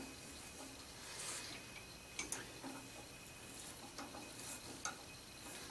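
Faint, scattered ticks and light clicks of a tap being turned by hand with a tap wrench into a blind hole.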